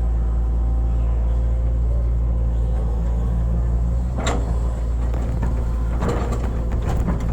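Hitachi excavator's diesel engine running steadily while it digs, with one sharp knock about four seconds in and a run of knocks near the end.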